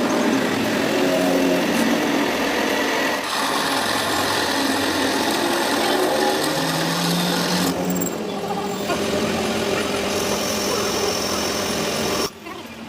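Metalworking power tool running steadily, dipping briefly about eight seconds in and stopping near the end.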